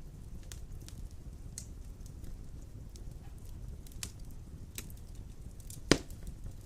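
Wood fire burning in a fireplace: a steady low rumble of flames with scattered crackles and snaps, and one sharp, loud pop about six seconds in.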